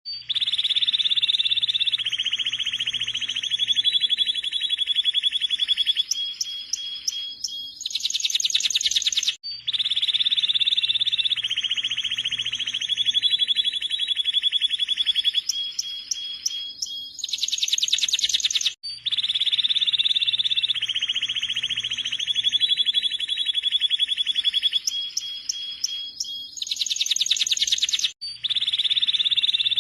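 Domestic canary singing long, rapid trills and rolls, with a fast high rattle closing each phrase. The same phrase of about nine seconds repeats exactly three times: a looped recording.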